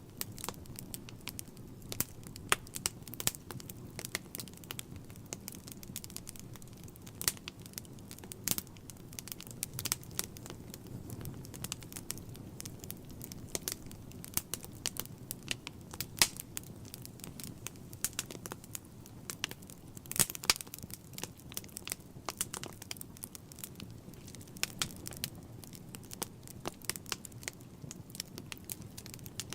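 Wood fire burning in a fireplace, crackling with irregular sharp pops and snaps over a low, steady rumble of flames.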